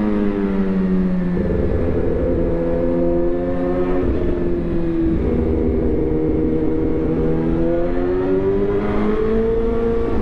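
Suzuki GSX-R1000 inline-four engine running through a replica SC-Project exhaust. The engine note drops in the first second or so, holds and dips again around the middle, then climbs steadily towards the end as the revs rise.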